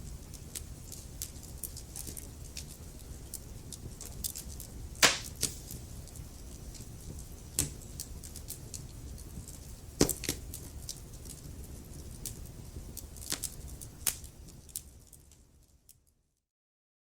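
Wood fire burning in a fireplace: a low steady rumble of flames with constant crackling and a handful of sharp, louder pops, fading away to silence near the end.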